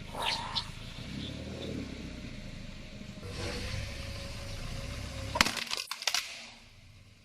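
Car engine running with a low rumble, then a quick cluster of sharp cracks about five and a half seconds in as a car tyre crushes something brittle.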